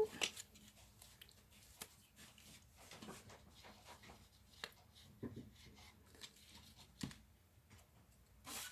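Faint rustling and light taps of cardstock being handled and set down on a craft table, with a short, slightly louder rustle near the end.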